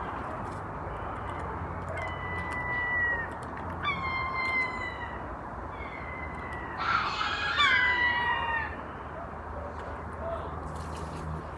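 Seagulls giving drawn-out mewing calls, each about a second long and dropping in pitch at the end, several overlapping about seven to eight seconds in, over a steady background hiss.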